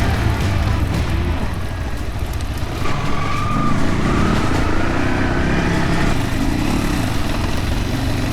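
Yamaha WR155R single-cylinder dirt bike engine running under load on a rough trail, the revs rising and falling from about three seconds in.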